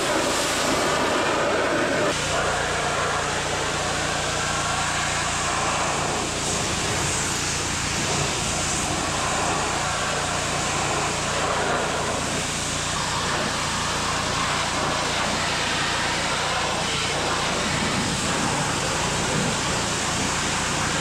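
A machine running steadily, with a constant hiss over a low hum.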